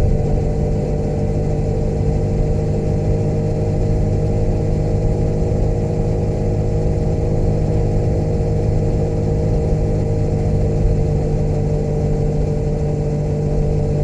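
Motorcycle engine running at a steady speed while riding, its pitch holding level without revving up or down.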